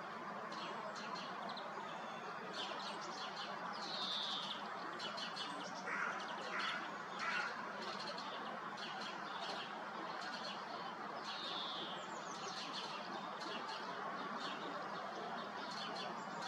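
Small birds chirping in a morning chorus, with a clear falling whistle repeated twice and three louder, lower calls about six to seven seconds in, over a steady background hiss.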